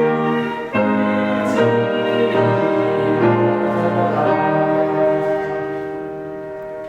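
Closing bars of a hymn accompaniment led by piano: a few slow chord changes, then a final chord held and slowly fading away.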